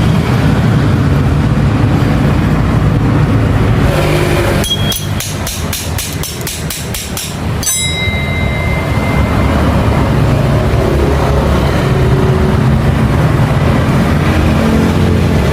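An engine running steadily. About five seconds in comes a run of rapid, evenly spaced clicks, about four a second, lasting about three seconds.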